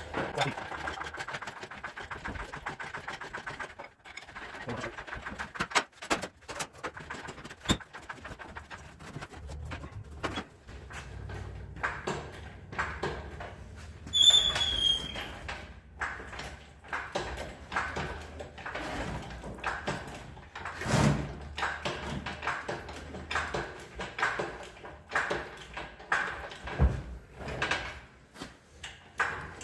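Engine hoist lifting an engine out of a car: creaks, squeaks and clanks of the crane and its chain. In the second half the strokes come at about one a second, with a sharp squeak about 14 seconds in.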